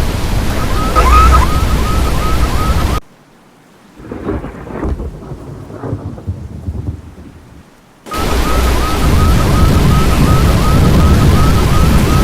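Loud, steady rush of storm wind and rain, with a quick repeated chirping tone about four or five times a second over it. A little after two seconds it cuts off abruptly to a much quieter stretch with scattered faint rumbles and knocks, then the loud rush and chirping come back about five seconds later.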